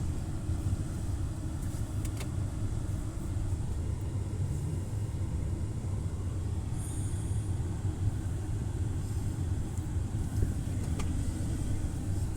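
A car running at low speed while being parked: a steady low engine and road rumble, with a couple of faint clicks.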